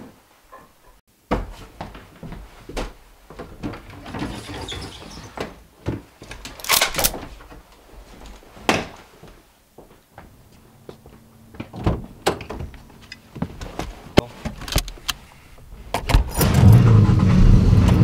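Scattered knocks and clicks of doors and cupboards being handled. Near the end, a car engine is started with the key and runs loud and steady.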